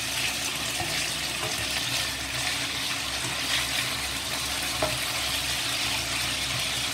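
Shredded chicken searing in hot oil in a wok, a steady sizzle, as a spatula flips the pieces to sear the second side, with a few light scrapes and taps of the spatula against the pan.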